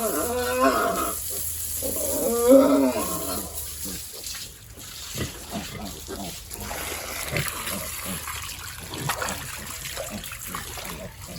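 Pigs squealing twice in the first three seconds, then water splashing with scattered knocks.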